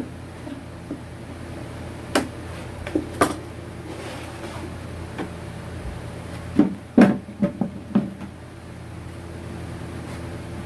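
Scattered knocks and clicks of hard objects being handled: one about two seconds in, two more around three seconds, and a quick cluster between about six and a half and eight seconds. A steady low hum runs underneath.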